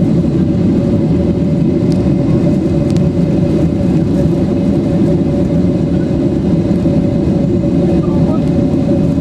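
Steady cabin drone inside a Boeing 767-300 in flight: a loud, even rush of jet engines and airflow with a steady hum riding over it.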